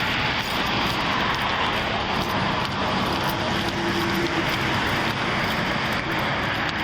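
Steady rushing noise of freeway traffic, with a faint hum about halfway through.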